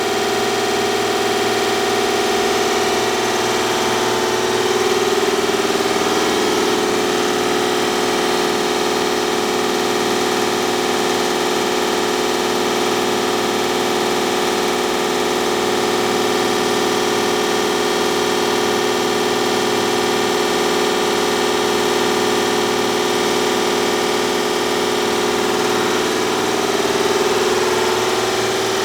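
Ingersoll Rand T30 15 hp two-stage reciprocating air compressor running steadily, a loud mechanical drone with a steady hum, its pitch shifting slightly about five seconds in and again near the end.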